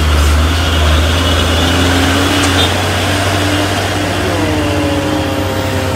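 Heavy trailer truck's diesel engine labouring uphill under an overloaded pile cargo, a loud, steady low drone. A whine falls slowly in pitch over the last two seconds.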